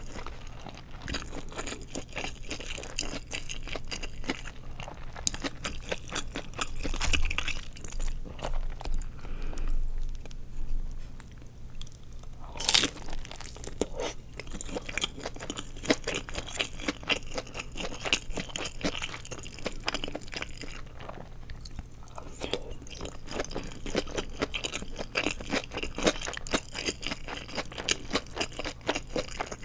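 Crispy deep-fried seaweed rolls (nori wrapped around glass noodles) being bitten and chewed close to the microphone: a steady run of crackly crunches, with one sharp, loud crunch about halfway through.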